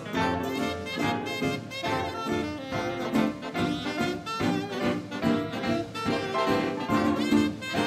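Live 1930s-style swing dance band playing, with saxophones and brass (trumpets and trombones) over a steady beat.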